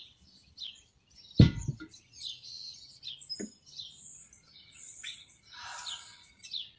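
Birds chirping in short repeated calls, with one dull thump about a second and a half in and a fainter knock about halfway through.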